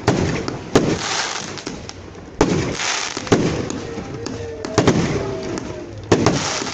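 Fireworks going off: about seven loud bangs at irregular intervals of a second or so, each followed by a fading crackle.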